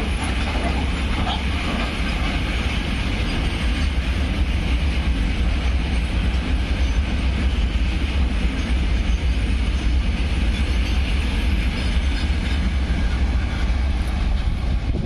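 Goods train hauled by a WAG-9HC electric locomotive running past close by: a loud, steady rumble and rattle of wheels on the track that holds even throughout.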